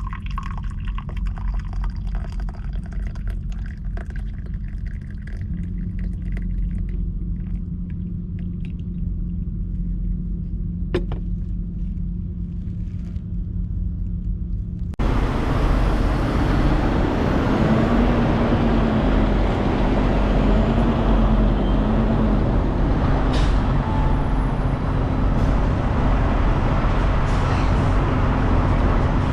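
Truck engine running, a steady low rumble with a few light clicks and rattles. About halfway through it cuts abruptly to louder, denser engine and road noise.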